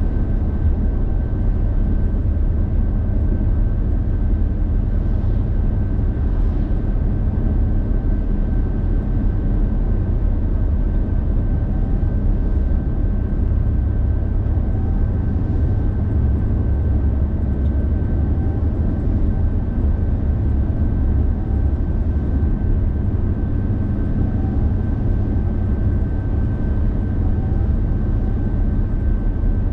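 Steady low rumble of a car driving, road and engine noise, with a faint steady high whine above it.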